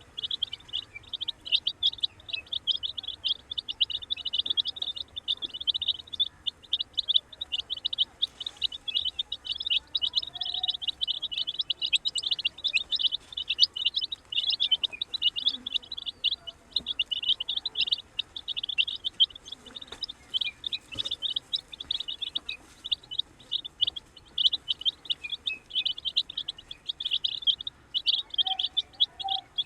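A group of baby chickens (chicks) peeping nonstop, many short high chirps overlapping in a constant chorus.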